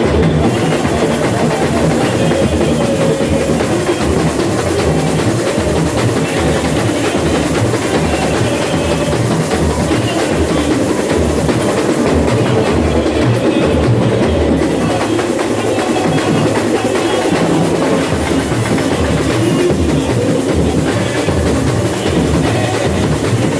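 Samba school drum section (bateria) playing live: massed drums and percussion in a steady, dense samba rhythm.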